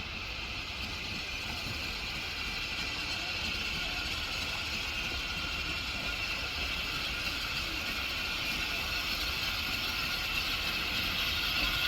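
A train running on the line, a steady mechanical clatter and rumble that grows gradually louder as it approaches.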